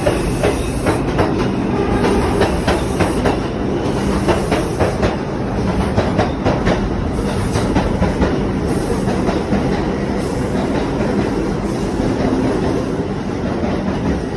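New York City subway train running past, its wheels clattering over rail joints in a fast, uneven run of clicks over a steady rumble.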